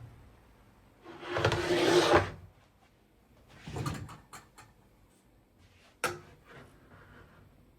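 Kitchen handling noises: a loud scraping slide lasting about a second, a shorter scrape with a few small clicks, then one sharp knock.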